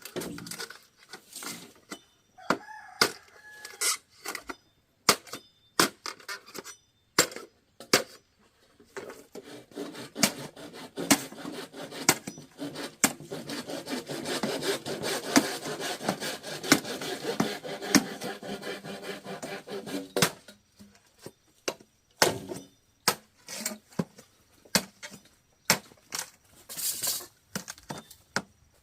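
Wood being sawn: a dense run of rasping saw strokes for about ten seconds in the middle, with sharp wooden knocks scattered before and after. A chicken gives a short call about three seconds in.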